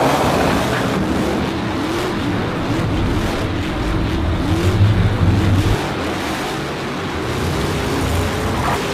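Engines revving over and over, each rev rising and falling in pitch, over a steady rumble: the sound of racing trucks.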